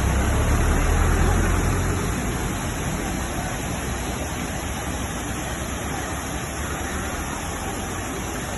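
Waterfall: a steady rush of falling water, with a stronger low rumble for about the first two seconds.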